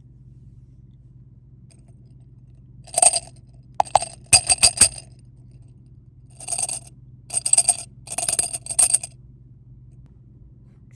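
Miniature toy rhythm sticks tapped together: short groups of sharp clicking taps, a few taps per group, with pauses between the groups.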